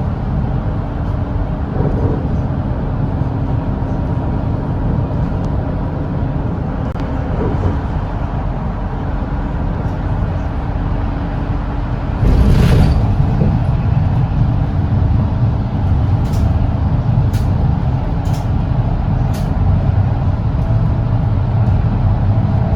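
Volvo B8RLE double-decker bus's rear-mounted six-cylinder diesel running steadily at highway speed, heard from inside the cabin with road noise. About halfway through, a brief sharp hiss of compressed air sounds from the air system, after which the engine runs a little louder. A few faint ticks follow.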